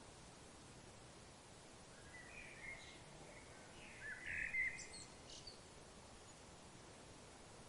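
A bird giving a brief run of chirping calls over a faint, steady background hiss. The calls come between about two and five seconds in and are loudest near the middle, with a few thin, higher notes at the end.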